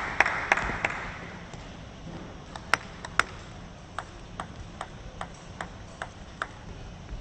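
Applause dying away, then a celluloid-type plastic table tennis ball ticking: two sharp clicks, then a run of light, evenly spaced bounces about two and a half a second, as a player bounces the ball before serving.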